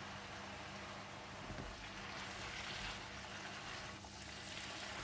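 Spinach and fish balls cooking in a wok: a faint, steady sizzle and bubble of the greens in their released juices, with soft rustling as the leaves are stirred and tossed.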